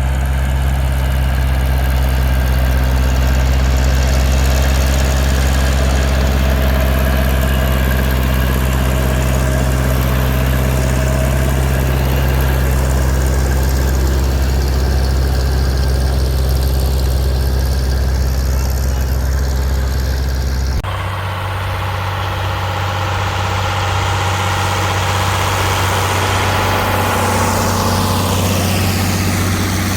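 Tractor engines running steadily with a deep, even hum. About 21 seconds in the sound switches abruptly to a different engine note, less deep and with more mid-range.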